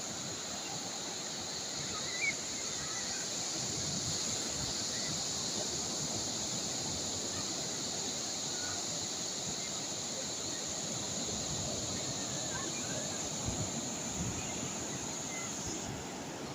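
Calm sea waves washing steadily on the shore, with a few low gusts of wind on the microphone near the end.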